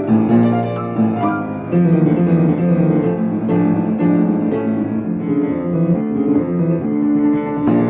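Piano playing a piece, a steady flow of notes over held lower tones.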